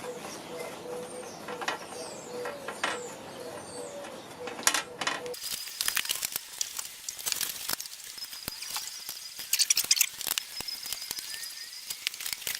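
Irregular metallic clicks and knocks of hand tools and parts being worked on a motorcycle, in places like a ratchet. A steady hum underneath cuts off abruptly about five seconds in, after which the clicking gets busier.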